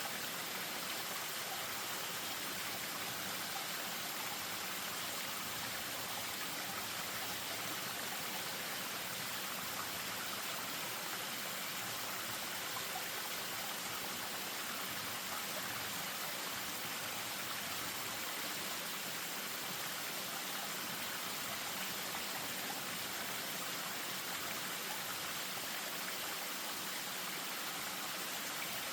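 Spring-fed stream spilling over a small waterfall: a steady rush and splash of running water.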